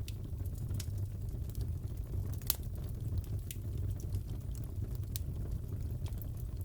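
Fireplace crackling: a steady low rumble of burning wood with scattered sharp pops and snaps, the loudest about two and a half seconds in.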